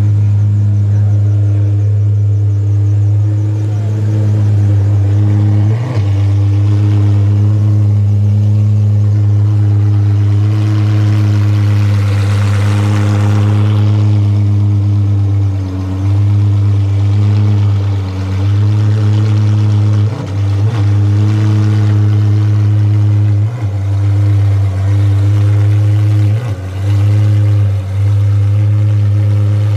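De Tomaso P72's supercharged V8 running at a steady fast idle, its note dipping briefly several times in the second half. A rush of hiss rises and fades around the middle.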